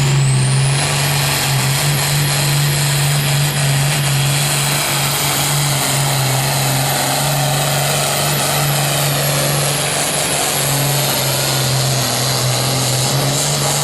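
Diesel engine of a pulling vehicle held at full throttle while it hauls the weight sled down the track, with a steady loud drone and a high whistle that climbs in the first second and then holds. The engine note cuts off abruptly near the end as the pull finishes.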